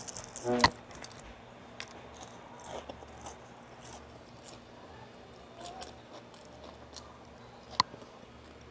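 A person chewing a fried bean-sprout spring roll (lumpiang toge) close to the microphone: soft, wet mouth clicks and small crunches. A short vocal sound comes just after it starts, and a sharper click near the end.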